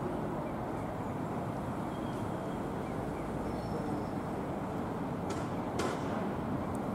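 Train at a station platform: a steady low rumble, with two sharp clicks about half a second apart a little after five seconds in.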